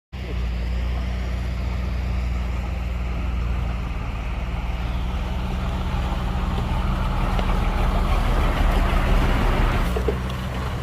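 Heavy earthmoving machinery running steadily on a diesel engine, with a rushing noise building up over the second half.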